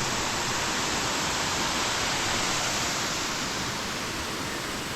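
Waterfall: a steady, even rush of falling water, easing off slightly in loudness toward the end.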